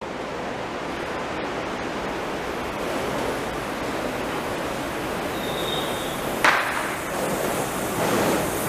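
A Wengernalpbahn rack-railway electric train approaching, heard as a steady rushing noise that grows louder near the end. There is a brief high squeal about five seconds in, then one sharp click.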